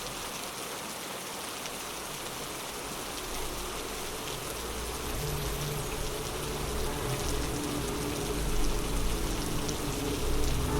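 Steady rain falling, an even dense patter. From about halfway a low rumble comes in underneath and slowly grows louder.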